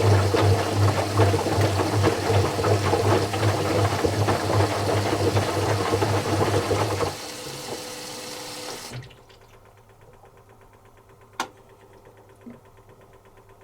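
Zanussi FC1000 compact washing machine moving water, with a steady electric hum under the sound of the water. The water sound and hum stop about seven seconds in, leaving the machine quiet apart from a sharp click a few seconds later.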